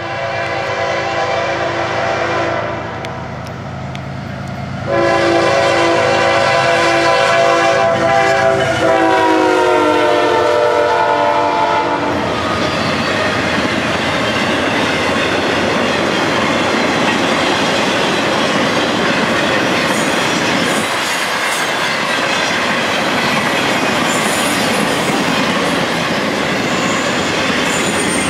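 CSX freight locomotive horn blowing for a level crossing: a short blast, then a long blast about five seconds in whose pitch bends shortly before it stops. Then the steady rolling noise and clickety-clack of an intermodal train's flatcars carrying truck trailers passing close by, with faint high wheel squeals in the second half.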